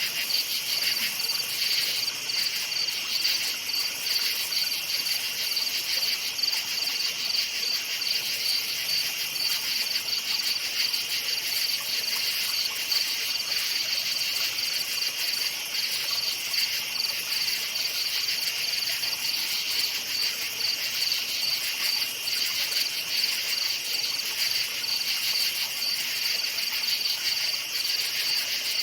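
Crickets chirping in a dense chorus at night, a steady rapid trill with no let-up.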